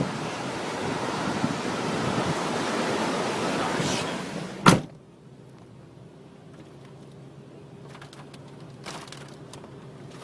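Strong storm wind rushing, cut off about four and a half seconds in by one loud thud, a door slamming shut. A few faint knocks follow later.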